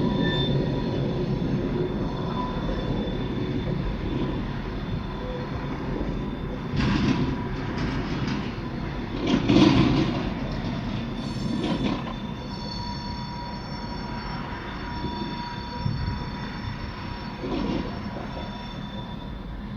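Freight train moving slowly during switching on a spur: steel wheels squealing in thin high tones over a steady low rumble, with a few knocks and clanks in the first half.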